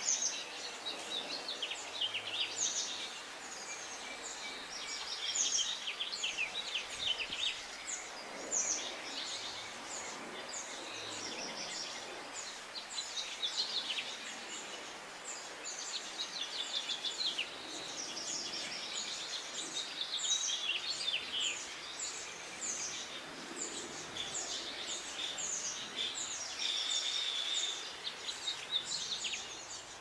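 Several songbirds chirping and singing over one another in quick, high trills, over a faint steady background hiss.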